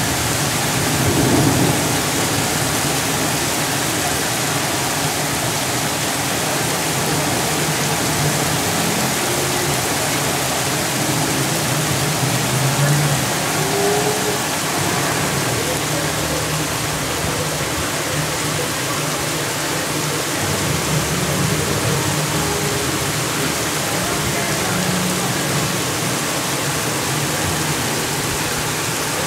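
Heavy rain pouring down steadily in a downpour, splashing on the surfaces below.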